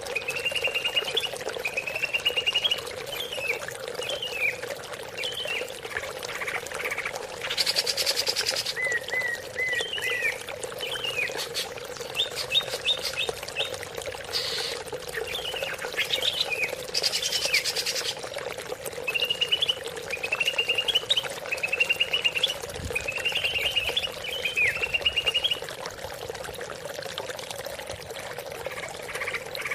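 Greater green leafbird (cucak ijo) singing: a long run of short whistled phrases, trills and slurred notes, over trickling water with a steady low hum. A few brief bursts of louder hiss break in, about 8, 14 and 17 seconds in.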